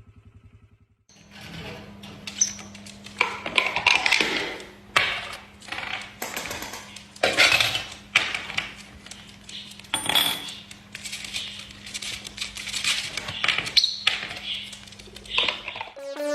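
Irregular clinks and clatters of small hard objects knocking together, over a steady low hum.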